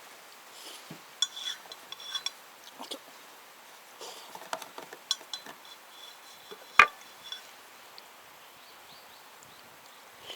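Scattered clinks and light knocks of dishes and utensils being handled, some ringing briefly, with one sharper, louder knock about two-thirds of the way through.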